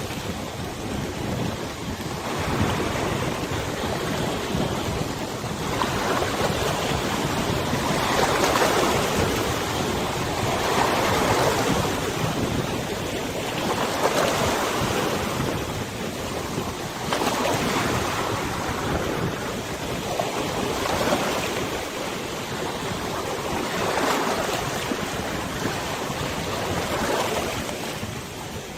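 River waves washing and splashing in slow swells, one about every three seconds, over a steady hiss of wind on the microphone.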